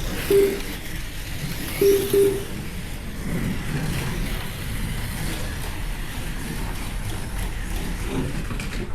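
Slot cars running laps on the track: a steady whir of their small electric motors and tyres. Three short electronic beeps cut through it, one about half a second in and two together around two seconds in.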